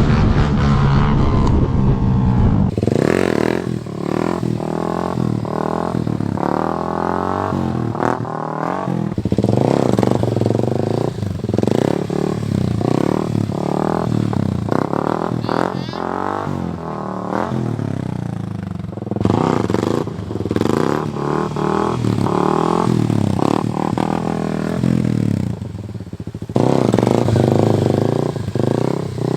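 Small 50cc dirt bike engine revving up and down over and over, its pitch climbing and falling with each throttle blip as it is ridden through wheelies. The first few seconds hold a steadier engine note before the repeated revving starts.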